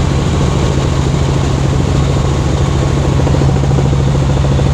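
Helicopter running steadily and loud, a low hum with a fast, even pulsing from the rotor.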